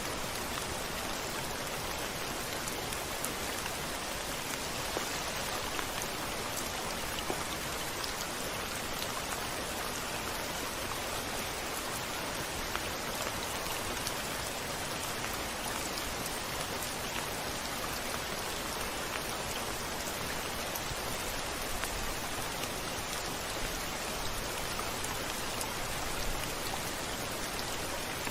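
Steady rain hissing, with scattered nearby drops ticking.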